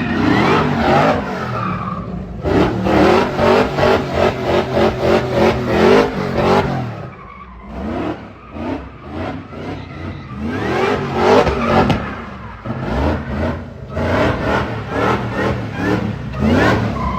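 Car engine revving hard in repeated surges with tires squealing, as in a burnout.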